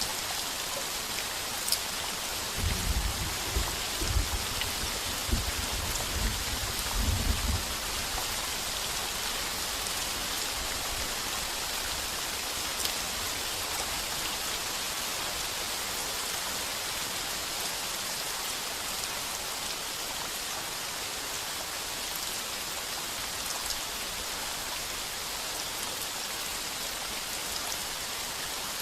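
Heavy rain drumming steadily on a tin roof, with a low roll of thunder rumbling for about five seconds a few seconds in, then easing back to steady rain.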